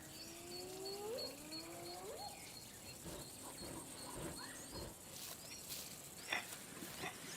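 Two faint, rising whoops from spotted hyenas in the first two seconds, with a small bird chirping rapidly and steadily at a high pitch behind them.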